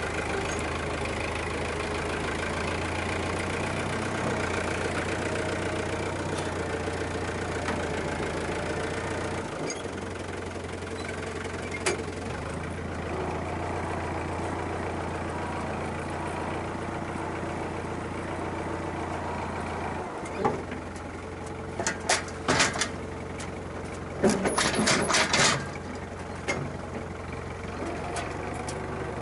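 Tractor engine running steadily, with a run of loud clanks and rattles about three quarters of the way through.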